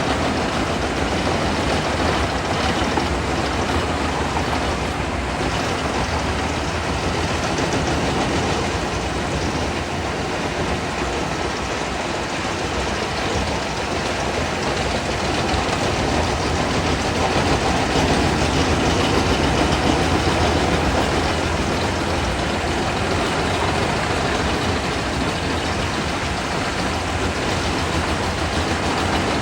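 Large wood chipper running steadily, a loud, even machine noise with no pauses or separate knocks.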